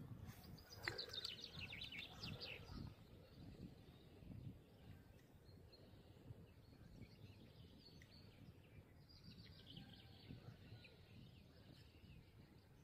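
A small bird singing faintly, a quick run of high, falling notes near the start and a fainter run about nine seconds in, over a low rumble of wind.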